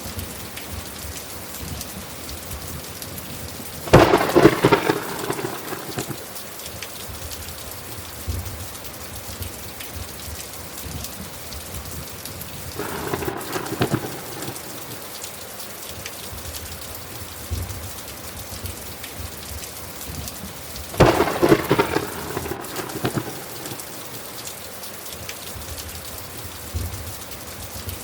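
Steady heavy rain with thunder: three crackling thunderclaps that rumble for a second or two each, a loud one about four seconds in, a softer one near the middle and another loud one about three quarters of the way through.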